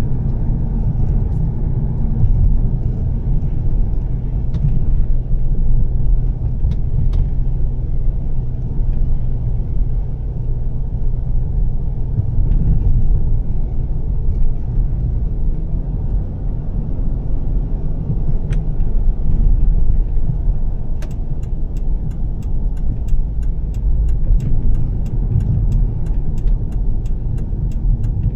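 Volvo S60 T6 driving on a wet road: a steady low engine and road rumble with little change in pitch. From about three-quarters of the way through, a run of quick sharp ticks comes at about three a second.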